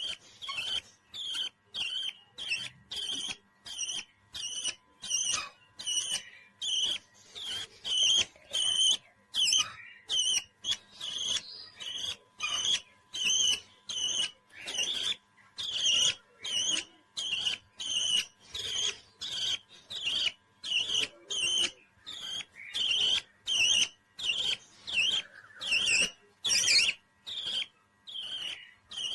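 Small parrot calling in short, sharp chirps repeated about twice a second, on and on at an even pace.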